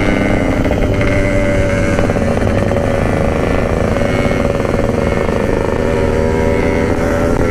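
Yamaha RX-King's single-cylinder two-stroke engine running under way at a fairly steady speed, its pitch drifting only slightly.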